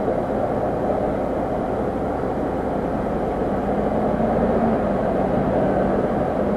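A car engine idling steadily, with a constant rushing noise and a faint hum.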